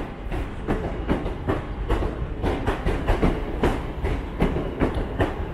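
Northern Class 323 electric multiple unit arriving, its wheels clattering over the points and rail joints in quick, irregular clicks over a steady low rumble.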